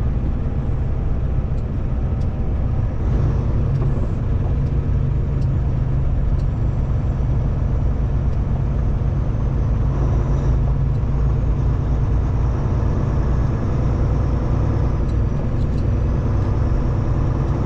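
Kenworth T680 semi-truck heard from inside the cab while driving: a steady low engine drone with road noise.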